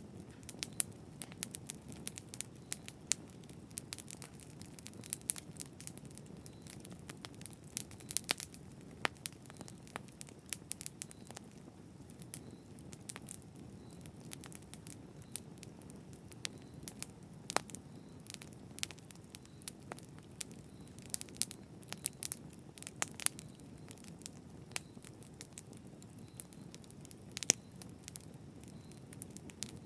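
Campfire burning, with a soft steady hiss of flame and frequent irregular crackles and pops from the wood, a few of them sharp and loud.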